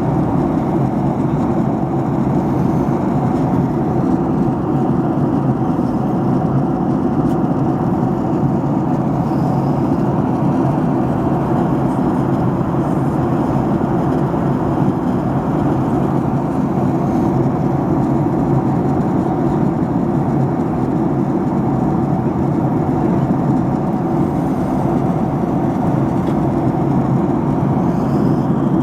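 Steady cabin noise of a passenger airliner in level flight: an even, unbroken rushing hum of engines and airflow, with a few faint steady tones in it.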